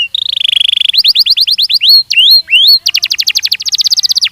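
Belgian canary singing: a rapid rolling trill, then a run of quick upward-sweeping notes, then a very fast, even trill of repeated notes near the end.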